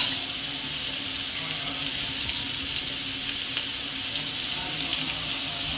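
Steady sizzling of fried potatoes, onions and capsicum frying in oil in a steel kadhai.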